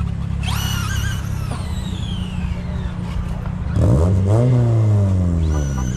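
High-pitched whine of a radio-controlled model's brushless electric motor as it speeds past, falling in pitch, then another whine rising near the end. Underneath, a car engine runs steadily and revs up and back down about four seconds in.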